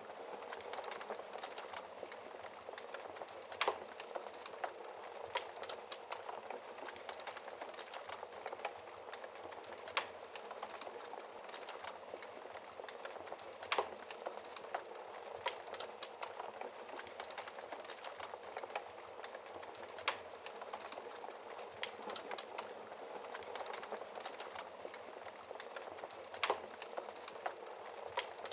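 Wood fire crackling: a steady hiss of small crackles with an occasional louder sharp pop, about every few seconds.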